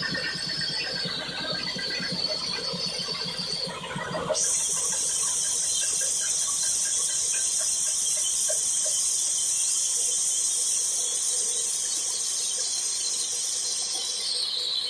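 Power saw cutting wood: the machine runs with a lower tone and a fast pulsing, then about four seconds in a loud, steady high-pitched squeal sets in as the blade cuts, holding for about ten seconds and dropping in pitch near the end.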